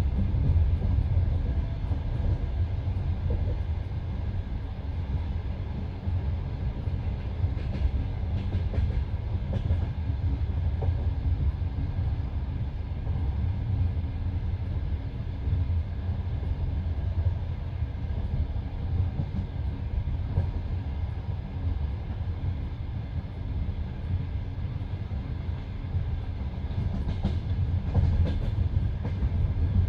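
Passenger train running along the line: a steady low rumble of wheels on rails, with a few faint clicks now and then.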